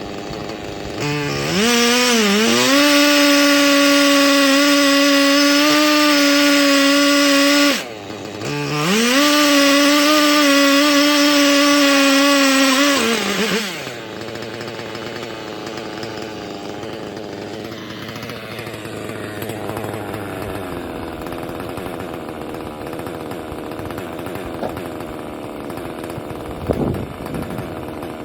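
Husqvarna 3120 XP two-stroke chainsaw on a chainsaw mill, revving up to full throttle and holding a steady high pitch. It drops off briefly, runs at full throttle again, then falls back to idle about halfway through and idles.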